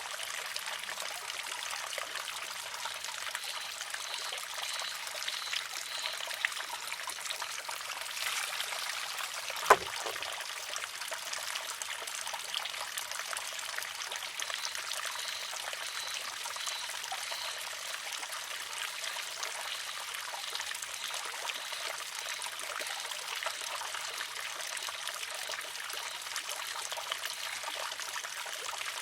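Water trickling steadily into a wooden shishi-odoshi (deer scarer). About ten seconds in comes one sharp wooden clack as the pivoting arm strikes its rock.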